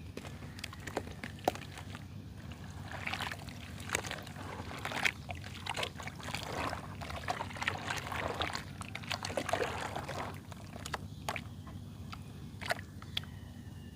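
Wet mud paste being worked and crumbled, with irregular soft wet crackles and a few sharp clicks over a faint steady low hum.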